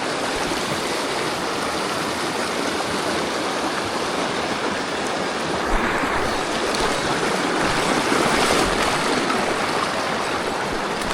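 Mountain stream water rushing steadily over rocks, swelling a little louder for a moment past the middle.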